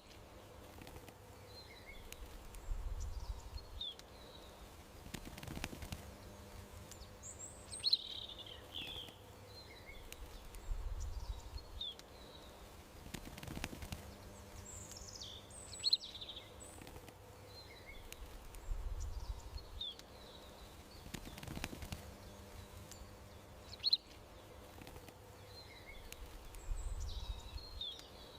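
Songbirds chirping and calling in short, high phrases over a faint steady hum. The same sequence of calls repeats about every eight seconds.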